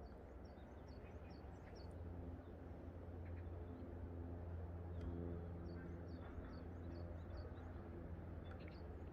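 A small songbird giving runs of short, high chirps, three bursts of several notes each, over a faint, steady low hum.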